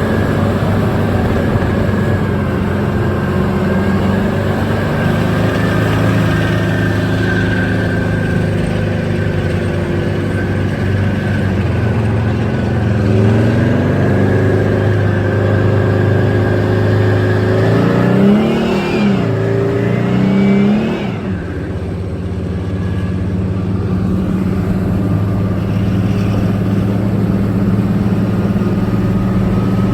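Tank's diesel engine running steadily under way. It revs up about halfway through, then rises and falls sharply for a few seconds before settling back to a steady drone. Its sound is called dry and cool.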